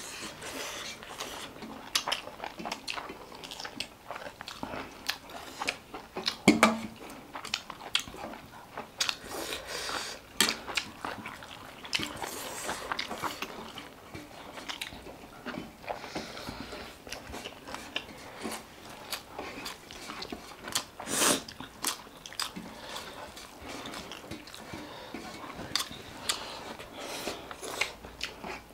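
Close-up eating sounds: chewing and biting food, with crisp crunches and sharp little clicks and smacks throughout.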